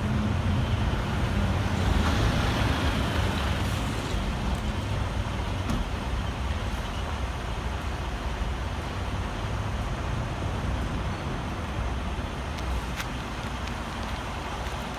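Steady low engine rumble of a semi-truck with road and traffic noise, a little louder about two seconds in.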